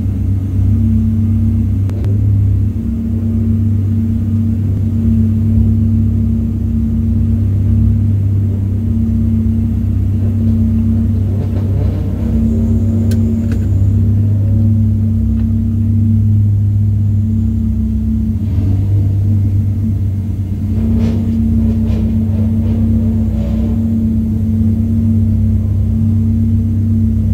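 Nissan 300ZX race car's engine idling steadily, heard from inside its cabin as a low, even hum. Other cars rolling along the pit lane add brief swells of engine noise around the middle and latter part.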